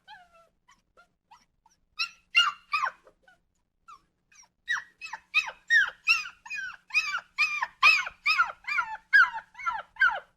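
Dog whimpering in short, high yelps, each sliding down in pitch. A few come about two seconds in, then after a pause a quick steady run of about three a second.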